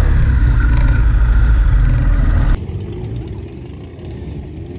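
Motorcycle engines running with a loud, low rumble that cuts off abruptly a little over halfway through to a quieter, more distant engine hum.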